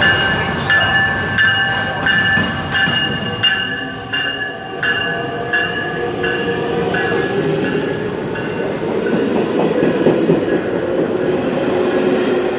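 Metra commuter train rolling past the platform: a bell rings at an even pace, about three strikes every two seconds, and fades out about six seconds in. The rumble and clatter of the bilevel cars going by then grows louder.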